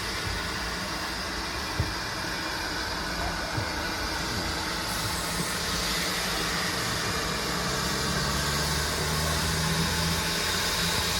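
A train at the station: a steady rumble, with a low hum building from about halfway through and a couple of light knocks in the first few seconds.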